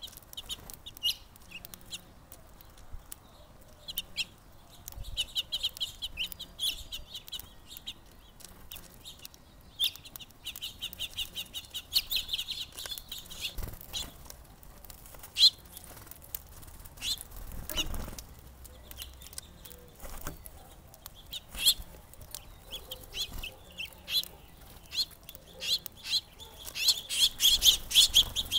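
Small songbirds at a feeder chirping in quick runs of short, high chirps that come and go several times and are busiest near the end, with scattered sharp ticks between them.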